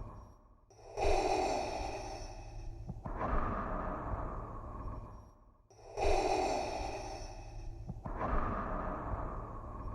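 Darth Vader's mechanical respirator breathing: slow, hissing breaths in and out through the mask in a steady loop. There are two full cycles, each about five seconds long and separated by a brief pause.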